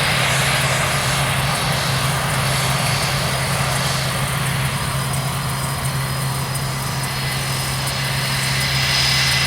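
F/A-18 jet engines running steadily at idle with a high whine, as the fighter sits on the ground after its display.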